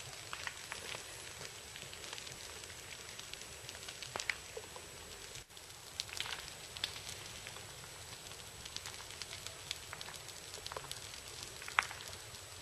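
Outdoor ambience: a steady hiss with scattered, irregular crackling clicks, and a brief dip about five and a half seconds in.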